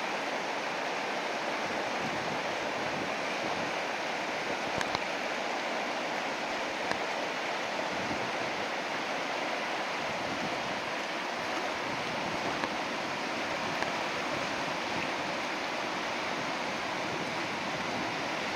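Whitewater river rapids rushing steadily, with a few faint clicks.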